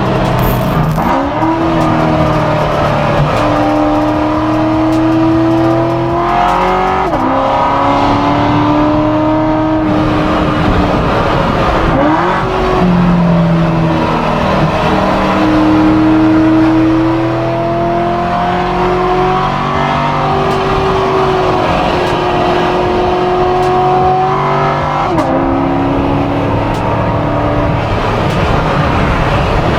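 Modified 840-horsepower C7 Corvette V8 pulling through the gears, its engine note climbing under throttle and dropping sharply at each of about three gear changes.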